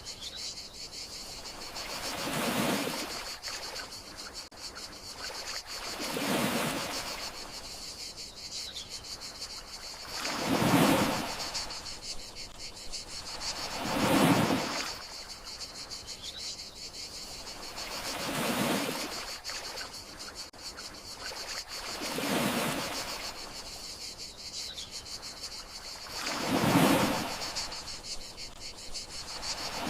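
Gentle sea waves washing in, each swell rising and falling about every four seconds, over a steady high trill of crickets.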